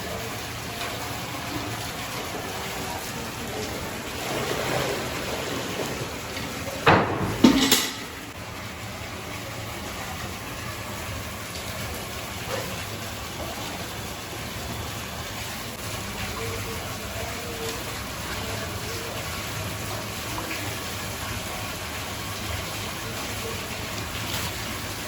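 Street-food shop ambience: a steady background hum of noise with faint indistinct voices, and two sharp loud knocks close together about seven seconds in.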